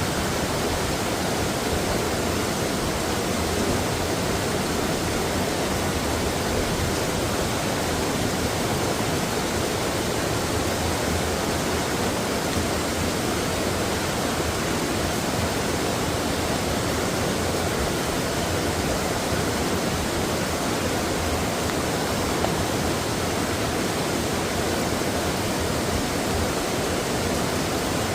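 Mountain stream water rushing steadily over rocks, a constant even rush with no breaks.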